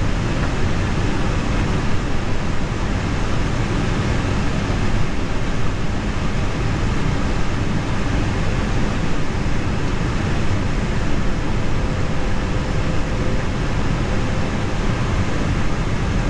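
Steady rushing noise in the Airbus A321 cockpit from the running IAE V2500 engine 2 and the air-conditioning packs, with the airliner on the ground before the second engine is started.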